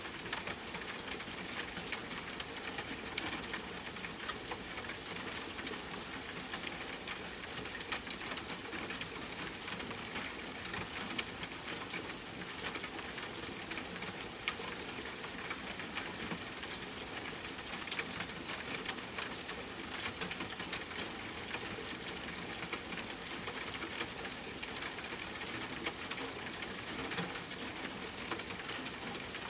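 Steady rain falling, with many small drops pattering in a dense, even hiss.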